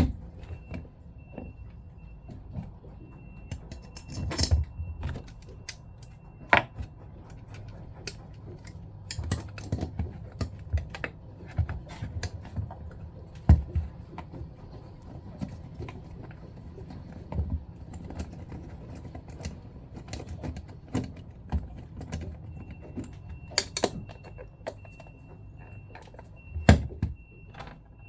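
Irregular clicks, taps and small knocks of tools and metal and plastic pump parts being handled while a Jabsco diaphragm pump is put back together.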